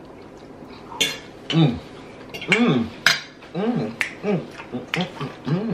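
Close-up eating sounds of someone chewing broccoli and shrimp: a run of sharp wet mouth clicks and smacks, with several short hums that rise and fall in pitch between them.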